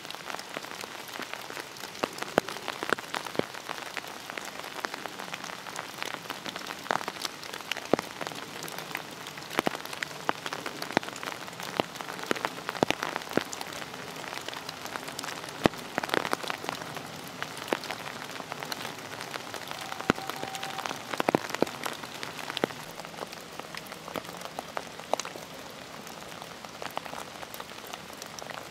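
Rain falling on fallen leaves in woodland: a steady patter with many sharp, irregular drop hits.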